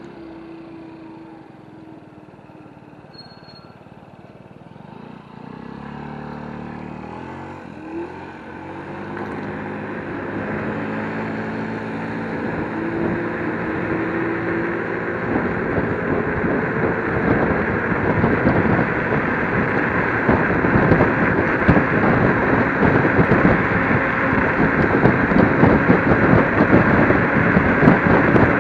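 Wind rushing over the microphone and road noise from a ridden electric scooter, building steadily as it picks up speed and loudest over the second half.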